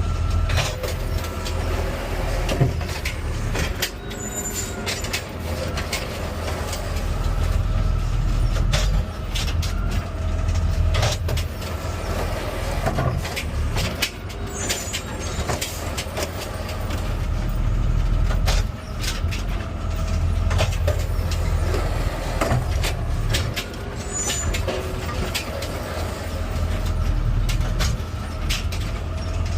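Garbage truck's diesel engine running as the truck drives, heard from inside the cab: a steady low rumble that swells and eases every several seconds, with scattered sharp clicks and rattles.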